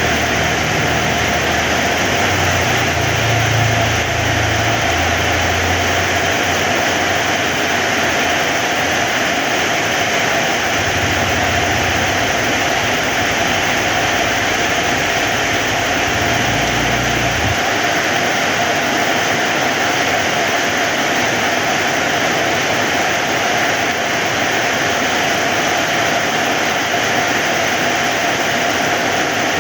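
Heavy rain falling steadily in a dense, even hiss. A low, uneven rumble sits under it for the first half and cuts off about seventeen seconds in.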